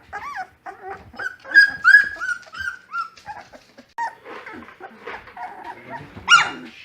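Young Great Pyrenees–Dogue de Bordeaux cross puppies, about three weeks old, whining and squealing in a string of short, high cries. The cries are loudest about a second and a half in and again near the end.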